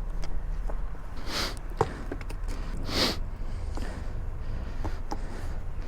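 A person sniffing twice, about a second and a half in and again about three seconds in, over a steady low rumble.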